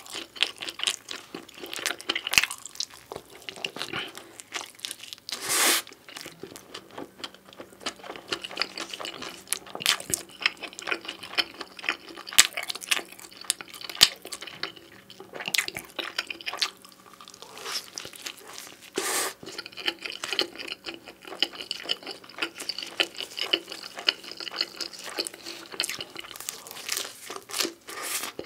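Close-miked chewing of pizza: wet mouth smacks, crunching crust and irregular sharp clicks, with a few louder bites.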